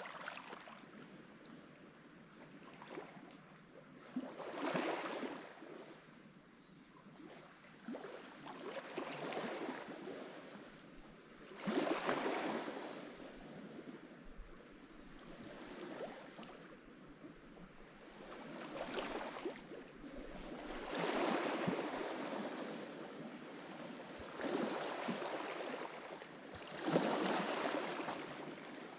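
Lake Michigan waves washing onto the shore, each wave a rush of water that swells and fades every two to four seconds. Some waves are clearly louder than others, with the biggest surges about twelve seconds in and near the end.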